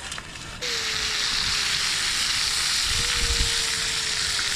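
Meat searing on a hot cooking surface, a steady loud sizzle that starts suddenly about half a second in.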